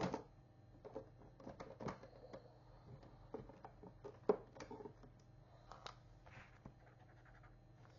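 Scattered light clicks and taps of plastic acrylic markers being handled at a desk: caps pulled off and pushed back on and markers set down while colours are tried. The sharpest click comes about four seconds in.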